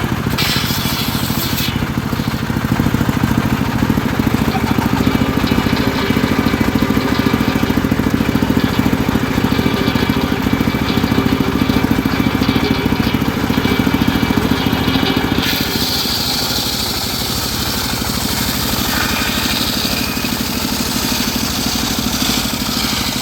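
Homemade engine-driven circular sawmill running steadily, a constant low engine drone; its higher sound changes about fifteen seconds in.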